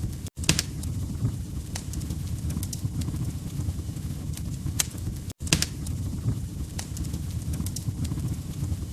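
Wood fire crackling: a steady low rumble with sharp pops every second or so. The sound cuts out for a split second twice, near the start and about halfway through.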